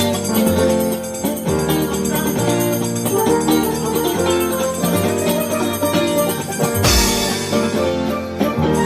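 A live band playing instrumental music at a sound check, with a steady bass line under sustained pitched notes. About seven seconds in there is a loud hit with a long ringing decay.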